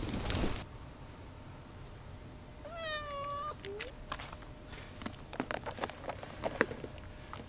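A domestic cat meows once, a single drawn-out call about three seconds in, with a short low chirp just after. Rustling at the very start and scattered light taps in the second half.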